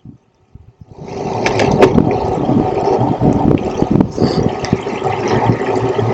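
Wind buffeting the microphone of a bike-mounted action camera while cycling on a road bike, mixed with road noise. It starts suddenly about a second in and then stays loud and steady.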